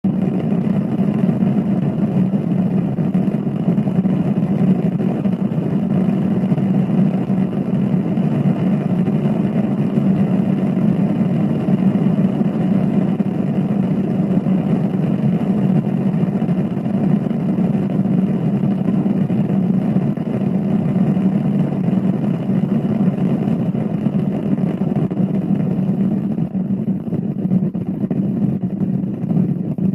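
A steady, unbroken low rumble that sounds like thunder, keeping an even level with no pauses.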